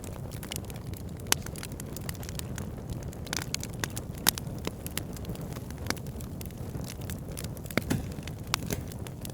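Wood fire burning, with a steady low rumble of flames and irregular sharp crackles and pops from the logs, a few louder snaps standing out.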